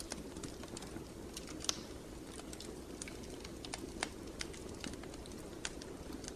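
Wood fire crackling over a steady low rumble of flames, with irregular sharp pops and snaps, two louder ones about two and four seconds in.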